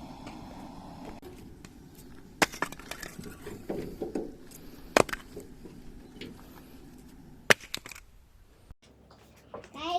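Wood campfire crackling, with a handful of sharp, spaced pops from the burning firewood.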